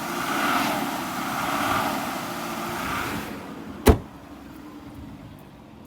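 2005 Aston Martin DB9's V12 engine being revved gently three times, then dropping back to a steady idle. A single sharp knock about four seconds in.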